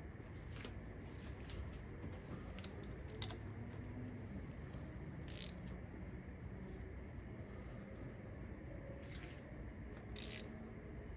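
Scattered light metallic clinks and scrapes of hand tools being handled over an engine, irregular and without a rhythm, over a low steady background hum.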